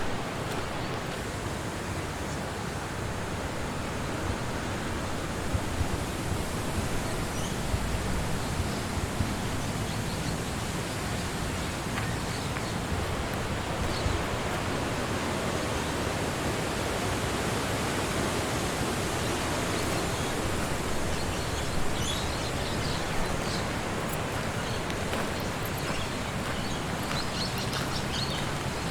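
Wind rushing steadily through the trees, a constant broad hiss that swells a little in places, with a few faint ticks and snaps scattered through it.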